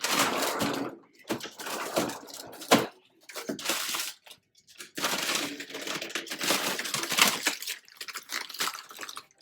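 Plastic packaging rustling and crinkling in irregular handfuls as smoothie fruit packs are picked through, with a couple of sharp knocks.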